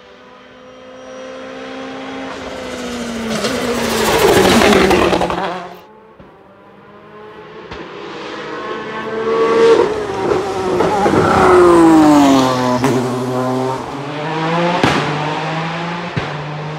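Car engines run hard as cars pass on a mountain road. One engine swells to a loud pass and is cut off sharply about six seconds in. More cars follow, their engine notes falling and then climbing again through the gears.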